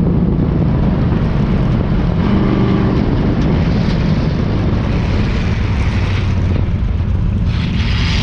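Democross race vehicles' engines running hard, their pitch rising and falling as they rev.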